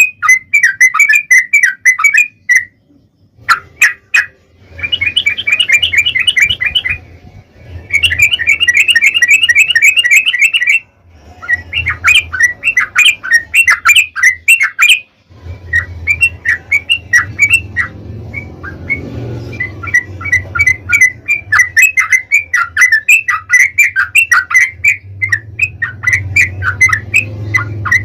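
Yellow-vented bulbul (trucuk) singing its long 'ropel' chatter: rapid runs of short, bubbling notes repeated several times a second, in long phrases separated by brief pauses.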